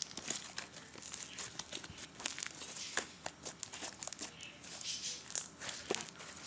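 Slime being squished and worked by hand close to the microphone, giving a dense, irregular run of small crackling pops and clicks.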